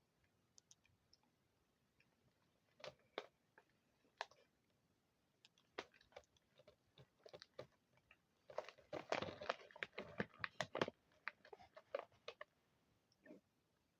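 Crunchy pretzel sticks being bitten and chewed close to the microphone. Scattered single crunches, then a dense run of loud crunching a little past halfway that lasts about two seconds, then a few more crunches.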